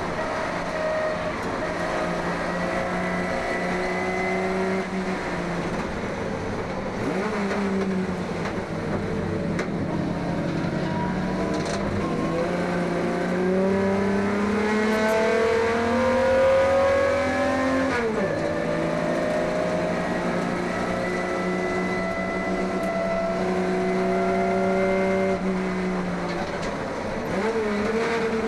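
HQ Holden race car's six-cylinder engine under hard acceleration, its pitch climbing through the revs and dropping sharply at each of several upshifts.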